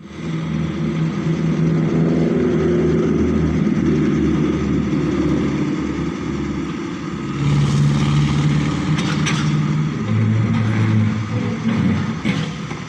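Backhoe loader's diesel engine running under working load, its pitch stepping up and down as the machine works, with a few sharp knocks about nine and twelve seconds in.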